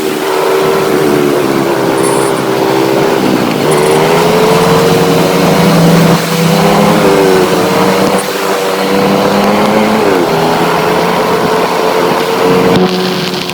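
Motorcycle engine running under way, its pitch steady, with a steady rushing noise underneath. The engine note drops briefly about a third of the way in and again about three-quarters through, then climbs back each time, as with easing off the throttle or changing gear.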